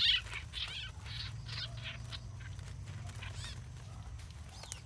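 Caught small songbirds held in the hand give a string of short, sharp, high calls, one every half-second or so with a short gap near the middle: distress calls of trapped birds.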